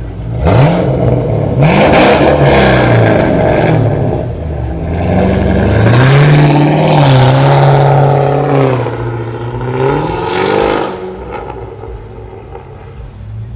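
Car engine revved hard several times, loud, its pitch climbing and falling, held high for a couple of seconds in the middle, then dropping back to idle near the end.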